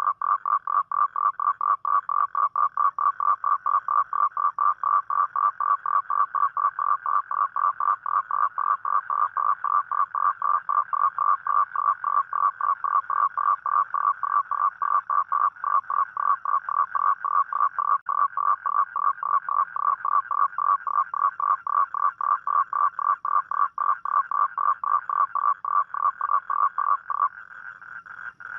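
Toad calling: a long, steady train of rapid, evenly spaced pulses, about five a second. Near the end the main call stops and a quieter, higher-pitched call carries on.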